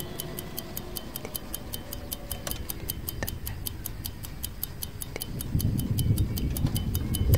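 Clock tick-tock sound effect ticking at an even, quick rate. A low rumbling noise comes in about five and a half seconds in and grows louder under the ticking.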